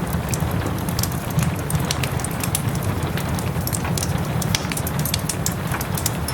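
Wood fire crackling in a fireplace with many quick sharp pops, over a steady hiss of soft rain and a low steady rumble.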